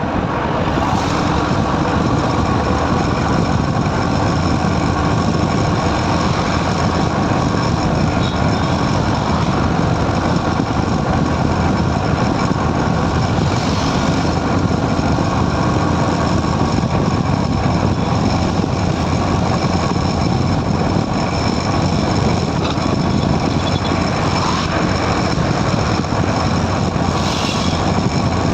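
Motorcycle running steadily at highway speed, its engine sound mixed with a constant rush of road and wind noise.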